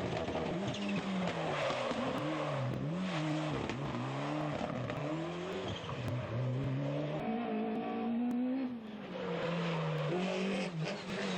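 Rally car engine accelerating hard and changing gear, its note climbing and dropping again and again. About three-quarters of the way through comes one longer climb that cuts off sharply.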